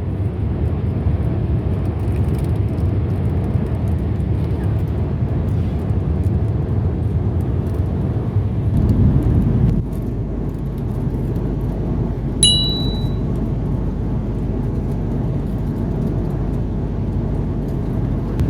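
Steady low rumble of an Airbus A330-300's cabin noise, with one short high-pitched beep about twelve seconds in.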